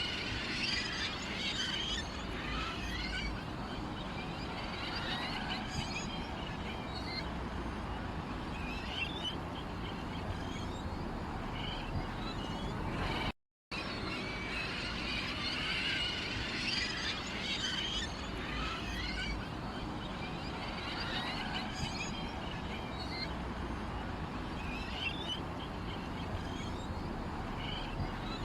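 Small songbirds chirping and twittering in a busy chorus of quick high notes over a steady low background, with a brief total dropout about halfway through.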